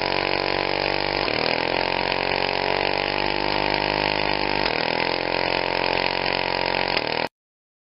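Small model uniflow engine with a ball inlet valve running steadily, a continuous mechanical hum whose pitch dips briefly twice, then the sound cuts off abruptly about seven seconds in.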